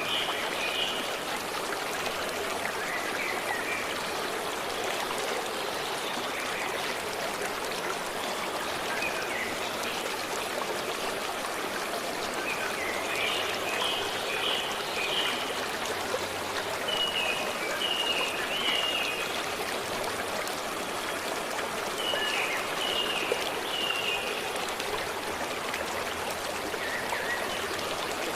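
A stream running steadily, with birds calling in short high phrases of three or four quick notes, repeated at intervals.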